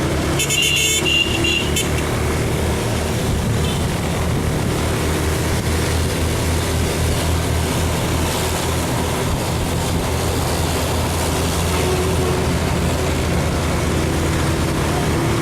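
A motorcycle engine runs at a steady pace while riding, under a constant rush of wind and road noise, with traffic around. A brief high-pitched sound cuts in about half a second in and lasts just over a second.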